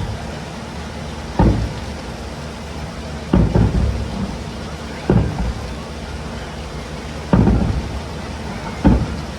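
Fireworks going off: five heavy booms spaced about one and a half to two seconds apart, each with a short rumbling tail.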